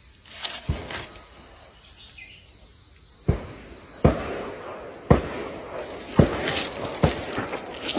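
An insect, cricket-like, chirping in a fast even pulse that stops about four seconds in. From about three seconds in, a series of dull thumps comes roughly once a second and is the loudest sound.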